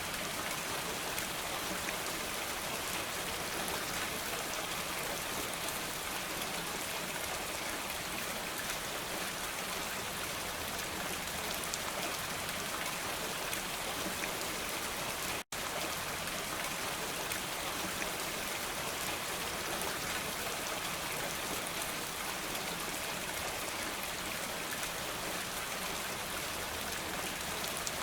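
Steady rain falling, a dense even patter of drops. The sound cuts out for an instant about halfway through.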